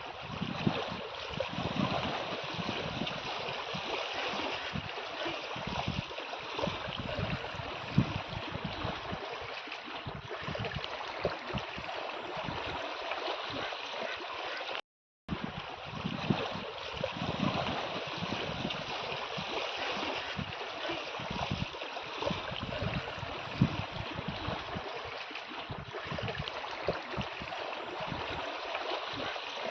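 Moving water washing and splashing, a steady rushing sound with small irregular splashes. It cuts out for a moment about halfway through.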